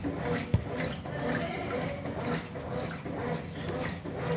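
Top-loading washing machine agitating a load of clothes in water, with an uneven churning rhythm over a steady motor hum and one sharp click about half a second in.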